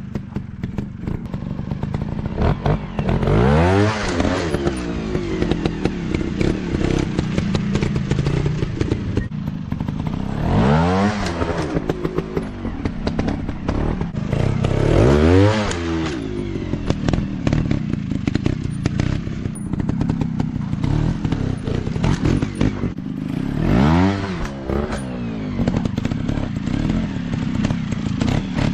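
Off-road dirt bike engines running, revving up and dropping back in four main surges about 4, 11, 15 and 24 seconds in, over steady engine noise with clatter and knocks.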